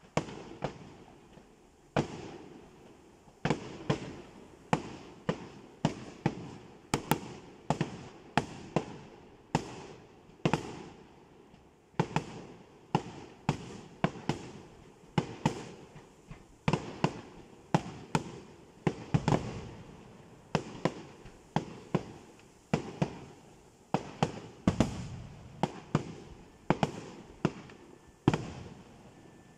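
Aerial fireworks bursting in a rapid series, sharp bangs coming about one or two a second, each trailing off briefly; the bangs stop just before the end.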